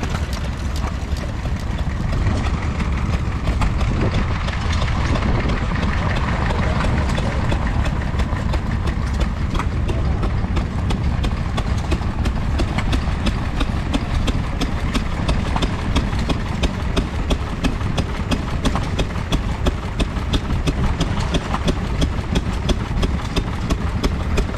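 Vintage single-cylinder stationary engine running steadily, its exhaust beats coming in an even rhythm of several a second over a low rumble, growing crisper about halfway through.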